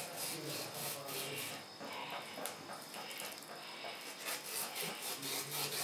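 Kitchen knife slicing raw pork in an enamel bowl: a run of short, irregular cutting and scraping sounds, several a second, as the meat is cut into cutlets.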